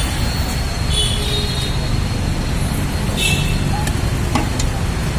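Steady low rumble of a motor vehicle running on the road, with traffic noise around it.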